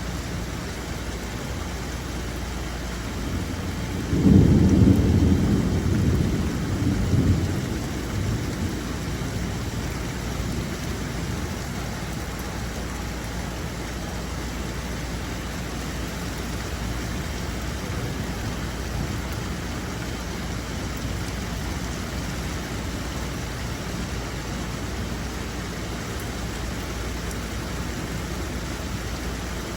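Steady rain, with a roll of thunder about four seconds in that rumbles low for a few seconds and fades.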